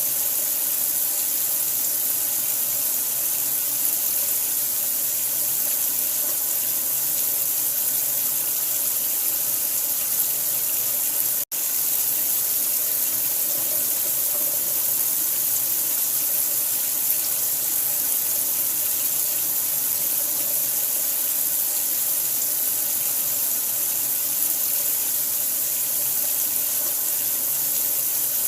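Running water, a steady even rush with most of its energy in a high hiss. It cuts out for a split second about eleven seconds in, then carries on unchanged.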